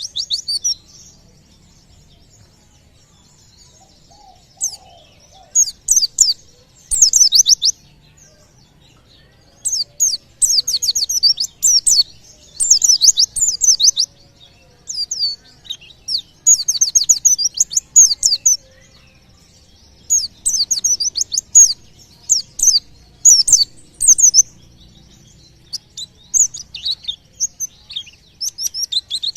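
White-eye (pleci) singing: bursts of rapid, very high-pitched chirping notes, each phrase a second or two long, repeated again and again with short pauses between them. This is the fast, volley-like song that keepers call "tembakan".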